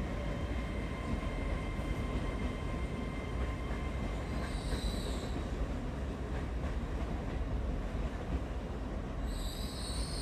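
Passenger trains moving slowly through the station: a steady rumble of wheels on rails, with high-pitched steel wheel squeal briefly about halfway through and again, louder, near the end.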